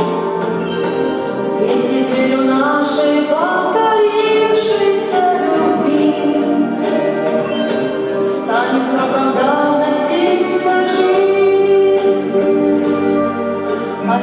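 Two women singing a song in duet, with held notes that slide between pitches, over a backing track with a steady beat.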